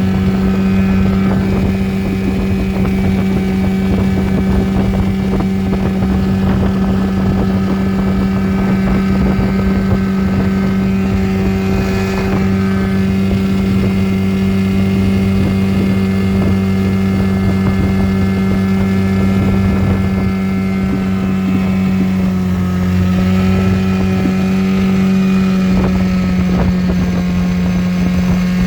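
7.5 hp Mercury outboard motor pushing a small aluminum boat, running at a steady speed with an even, unchanging engine note.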